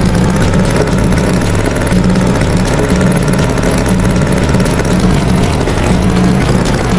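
Tractor engine running steadily at idle, with an uneven throb.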